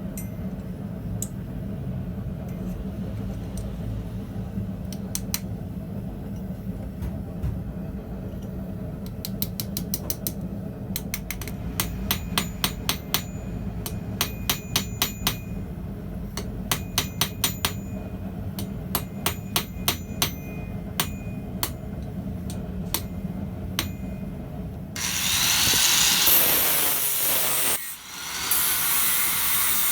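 Hand hammer striking hot steel on an anvil while forging an arrowhead, in quick runs of blows with a metallic ring, over a steady low hum. Near the end a loud rasping, scraping sound takes over.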